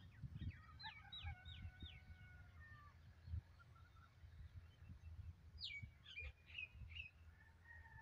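Faint calls of wild birds: a quick run of four or five downward-sliding notes about a second in, another few sharp calls around six seconds, and a held whistled note near the end. A low, uneven rumble sits underneath.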